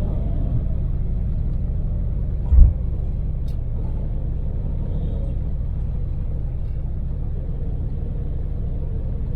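Daewoo Damas microvan's LPG-fuelled three-cylinder engine and road noise, heard inside the cab while cruising: a steady low rumble. One loud, low thump comes about two and a half seconds in.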